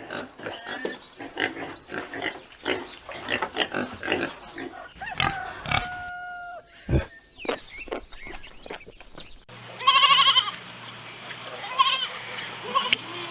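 Pigs grunting and squealing in short, irregular calls. After a sudden cut about nine and a half seconds in, an animal bleats loudly, with a wavering call twice.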